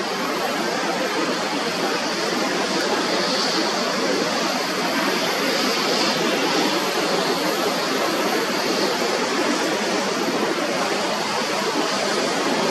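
Jet airliner engines: a steady rushing noise that holds level without rising or fading.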